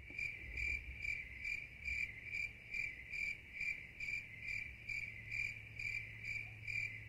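Cricket chirping in an even rhythm, about two to three short chirps a second, over a faint steady low hum.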